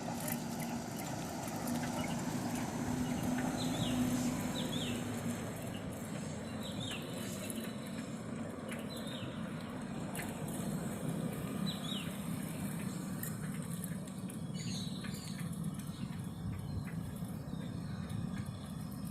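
Steady wind and street noise heard while cycling, with a bird's short, high, falling chirps repeating every two seconds or so through the first two-thirds.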